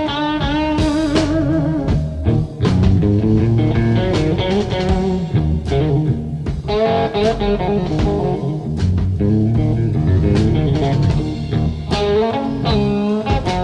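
Blues guitar playing an instrumental passage, its notes bent and wavering, over a steady bass line.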